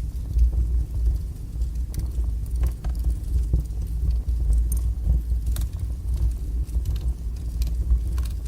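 Wood fire burning strongly in a fireplace: a steady low rumble from the flames, with scattered sharp crackles and pops from the burning logs.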